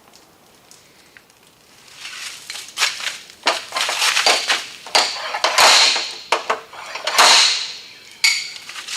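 Slide hammer with a hook adapter pulling on a car door's buckled lip to straighten a dent: a run of metal clanks and scrapes starting about two seconds in, with a few sharper knocks.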